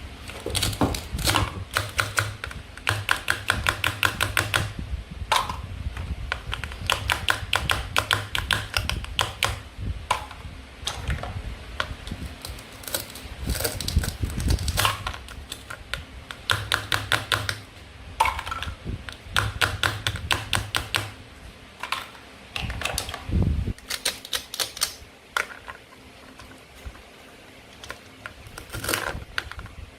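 Toy fruit and vegetables being cut apart with a toy knife: runs of rapid crackling clicks a second or two long, with single plastic clacks between them. The clicking thins out in the last third.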